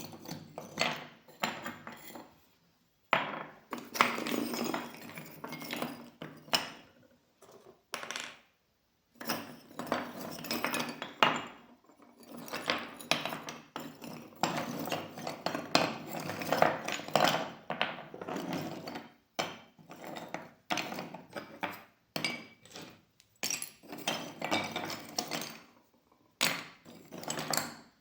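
Irregular clinking and clattering of small hard objects, in stretches broken by brief pauses.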